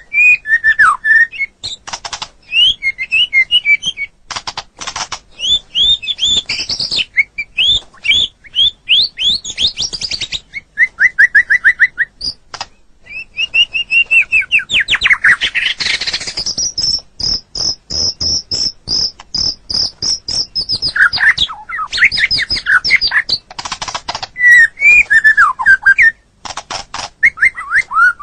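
White-rumped shama (murai batu) singing a long, varied song of quick whistled phrases and harsh clicking chatter, with a fast run of rapidly repeated high notes about halfway through.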